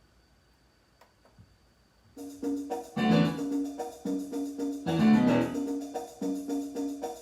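Near silence for about two seconds, then a rap backing beat starts: a short keyboard riff repeating in a steady rhythm, with two louder accents about a second and three seconds after it begins.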